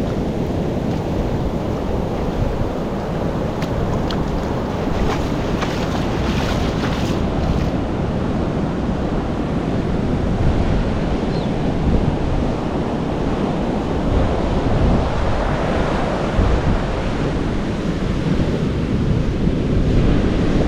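Sea surf washing against a rocky shore, a steady rushing noise, with wind buffeting the microphone. A scatter of light clicks sounds between about four and eight seconds in.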